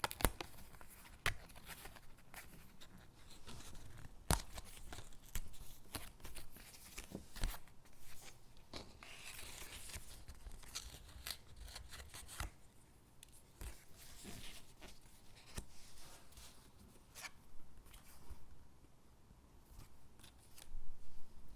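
Stickers being peeled from their backing sheet and pressed onto paper cutouts: soft peeling and paper rustling broken by irregular small taps and clicks.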